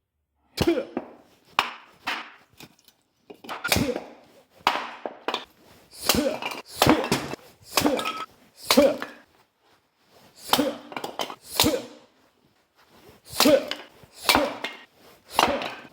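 Firewood being split: about fifteen sharp chopping blows in uneven groups, each a hard strike on wood with a short crack as it splits.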